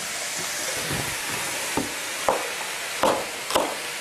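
Vegetables (onion, king oyster mushroom, paprika and chili) sizzling steadily in a hot wok. About two seconds in, a kitchen knife starts chopping on a wooden cutting board: four sharp chops roughly half a second apart.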